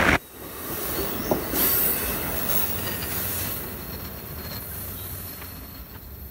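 NJ Transit commuter train passing. Its loud rush of noise drops off abruptly just after the start, then fades steadily as the train moves away, with a faint high thin whine from the wheels on the rails.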